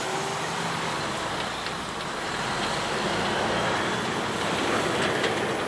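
Approaching diesel-hauled train: a steady rumble of locomotive and wheels on the rails, with a few sharp clicks near the end.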